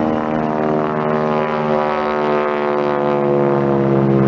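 Aerobatic propeller airplane's piston engine running at power, a steady drone whose pitch falls slowly.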